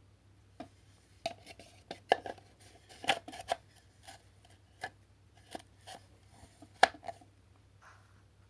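A dozen or so sharp clicks and snaps at irregular intervals as the plastic parts of a GeeMo E4 cordless vacuum's dust box and floor head are handled during cleaning. The loudest snap comes near the end.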